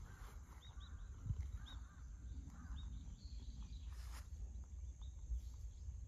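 Birds chirping in short, repeated calls over a low steady background rumble.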